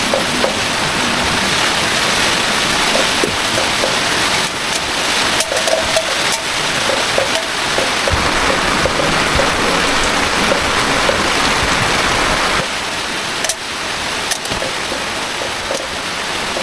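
Heavy rain falling steadily, a dense hiss with scattered sharper drop hits; it eases slightly about twelve seconds in.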